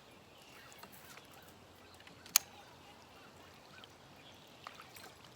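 Quiet open-air background with faint, short bird chirps and a single sharp tap or click a little over two seconds in.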